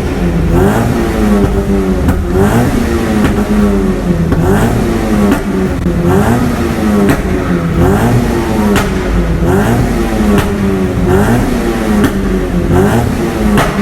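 A 2013 Mazda Miata's 2.0-litre four-cylinder, breathing through an ISR header-back exhaust, is revved up and dropped again and again, about once a second, with short sharp cracks between the revs. This is the rev-and-release run that makes the exhaust shoot flames.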